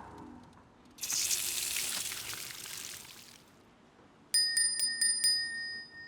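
Cartoon sound effects: a rushing hiss lasting about two and a half seconds, then a small bell struck rapidly about six times and left ringing.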